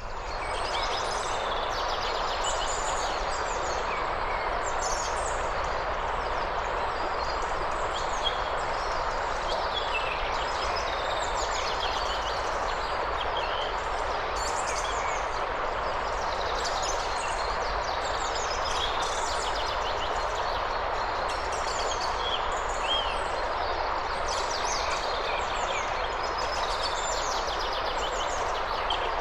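Steady rush of flowing water, with many small birds chirping and trilling over it throughout.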